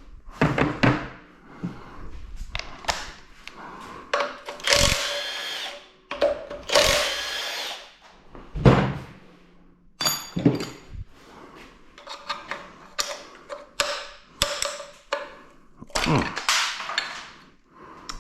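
Tools knocking and clanking against the metal of a GM 2.4 EcoTec engine as bolts come off around the water pump housing. Two short, roughly one-second bursts of a power tool run about four and seven seconds in.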